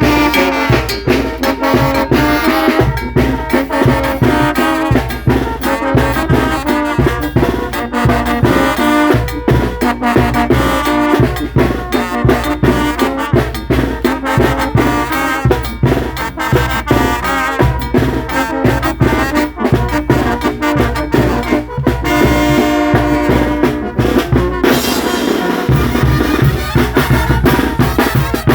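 Mexican brass band (banda de viento) playing: trumpets and trombones over a steady drum beat.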